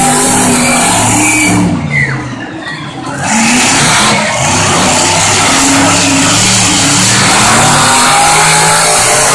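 Monster truck engines revving hard under full throttle during a race, the pitch climbing and falling again and again. The sound drops off briefly for about a second near two seconds in, then comes back loud.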